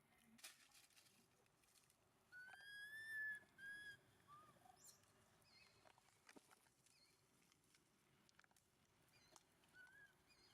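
Baby monkey giving high, whistle-like calls: one long call a little over two seconds in, a short one just after, and a brief one near the end, with faint clicks between.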